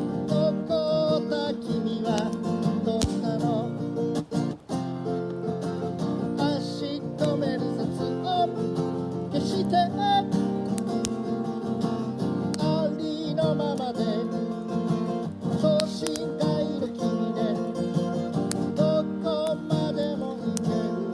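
Acoustic guitar strumming steady chords under a wavering melodic line, with scattered sharp clicks and a brief break about four and a half seconds in.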